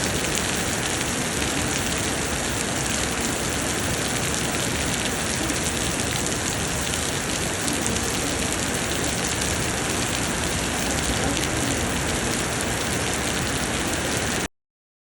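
Heavy summer rain pouring steadily, a dense, even hiss of falling water. It cuts off abruptly to silence just before the end.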